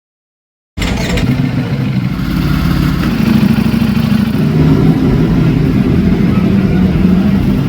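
Ducati Panigale V4 superbike's V4 engine running loudly, its exhaust note a deep steady drone. It cuts in abruptly about a second in, out of silence.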